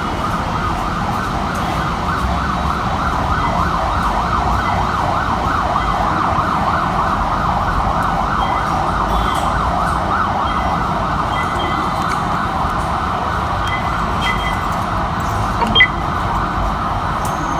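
A siren wailing with a fast, wavering warble over a steady low rumble of traffic. There is a short sharp knock near the end.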